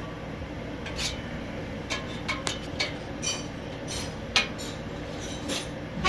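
Metal tools and exhaust hardware clinking and tapping against each other: about ten separate sharp clinks, some ringing briefly, over a steady low background hum.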